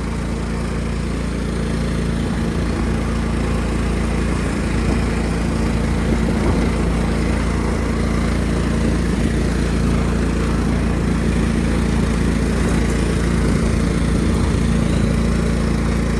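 Engine of a 1999 Cub Cadet HDS 2135 riding lawn tractor, fully warmed up, running steadily as the tractor is driven. It grows a little louder over the first few seconds, then holds an even hum.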